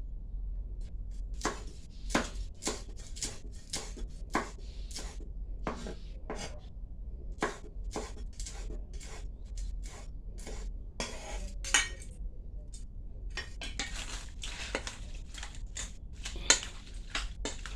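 Utensils clinking and scraping against dishes and bowls in a long run of irregular knocks, a few each second, with two louder clacks, one about twelve seconds in and one near the end.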